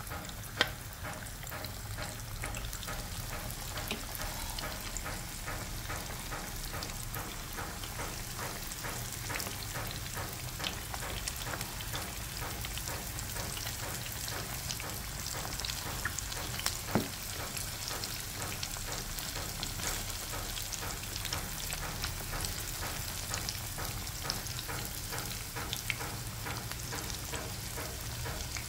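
Cornstarch-coated chicken pieces deep-frying in hot oil: a steady bubbling sizzle full of fine crackles. Two sharper pops stand out, one just after the start and one a little past halfway.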